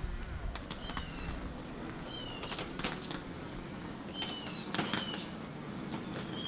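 Short, high-pitched chirping animal calls, each dropping a little in pitch, in pairs and threes with gaps of a second or so between groups.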